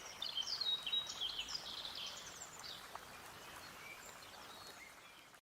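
Birds chirping in a quick cluster of short, sweeping calls over a faint steady hiss of nature ambience; the sound cuts off abruptly near the end.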